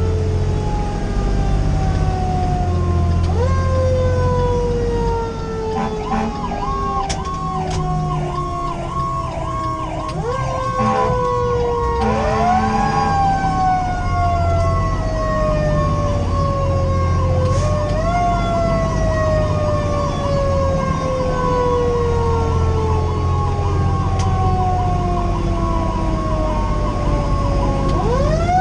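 Fire engine sirens on an emergency run. A mechanical siren winds down slowly and is wound back up several times. From about six seconds in, an electronic siren yelps over it, switching to a faster warble about halfway through. A diesel engine drones beneath.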